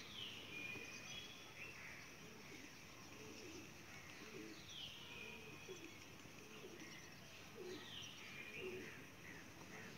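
Faint bird calls: a high whistle that falls in pitch, repeated every few seconds, among short, low cooing-like notes over a faint steady hiss.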